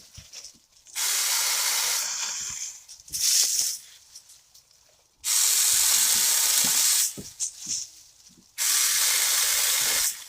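Saker 20V cordless mini chainsaw run in three bursts of about two seconds each, its chain cutting through small branches, each burst starting and stopping abruptly as the trigger is squeezed and let go.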